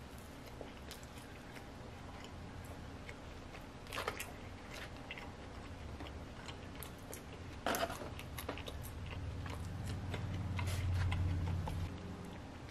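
Quiet chewing of toast and fried chicken, with soft wet mouth clicks and small crunches. Two sharper clicks come about four and eight seconds in, and a low rumble swells near the end.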